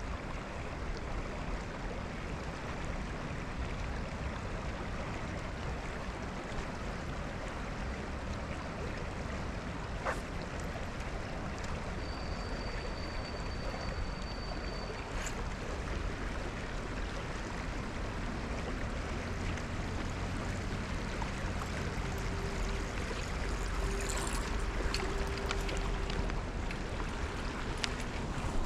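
Steady wash of water lapping against a small fishing boat's hull. A thin high whistle sounds for a few seconds midway, and a low steady hum comes in for several seconds near the end.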